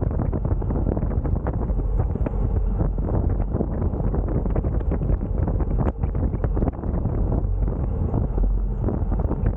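Wind buffeting the microphone: a steady low noise full of small crackles.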